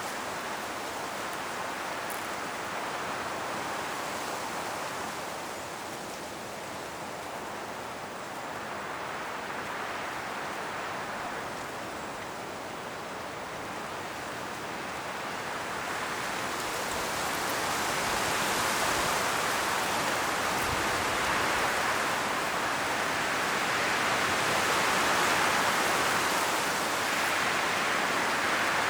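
Strong wind blowing through trees, rustling leaves, rising and falling in gusts and growing louder past the midpoint.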